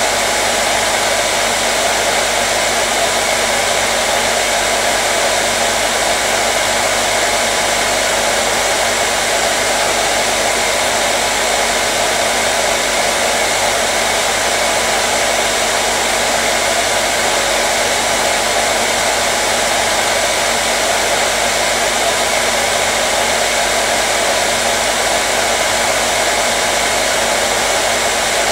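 Hair dryer running steadily: an even, unchanging whoosh of air with a faint motor hum, played as white noise to soothe babies.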